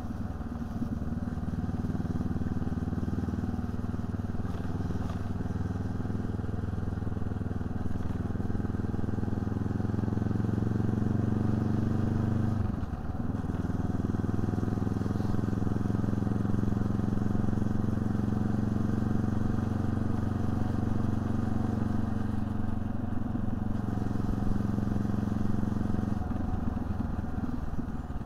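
Honda CB500X's parallel-twin engine running under way, its note slowly rising in pitch. The note briefly drops out about halfway through, then picks up again and runs steadily before easing near the end.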